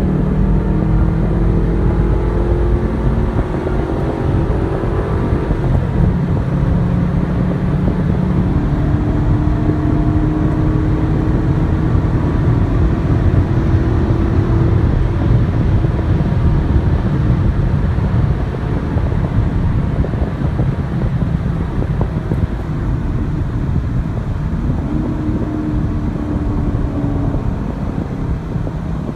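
Chevrolet LS3 6.2-litre V8 of a Camaro SS driving, its engine note climbing under acceleration and dropping back a few times, at what sound like gear changes or lifting off, over steady road rumble.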